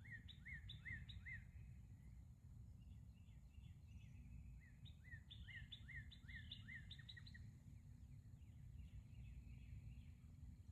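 Faint bird song: two runs of short chirps repeated a few times a second, over a steady low background rumble.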